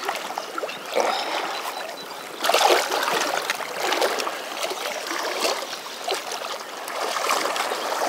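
River water rushing and splashing, uneven in level, with a louder surge of splashing about two and a half seconds in.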